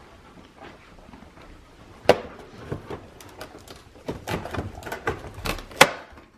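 Packaging of a dog-treat advent calendar being handled and opened: scattered clicks and crinkling, with a sharp snap about two seconds in and another near the end.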